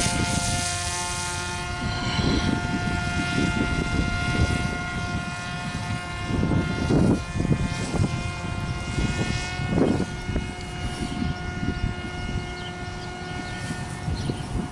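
Electric pusher propeller of a Parrot Disco fixed-wing drone whining at a steady pitch in flight, with gusts of wind on the microphone.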